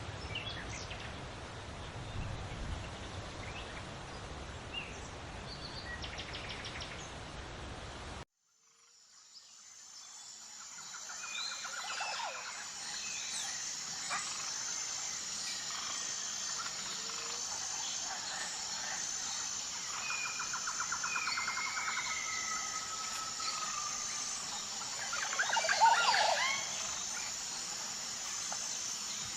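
Several songbirds singing, with trills and whistled notes. For the first eight seconds they sit faintly under a steady rustling hiss; then the sound cuts out abruptly and fades back in clearer, over a steady high-pitched buzz, with one loud burst of calls near the end.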